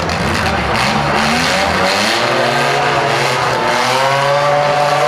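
Several small demolition derby cars' engines revving, their pitch rising and falling and overlapping.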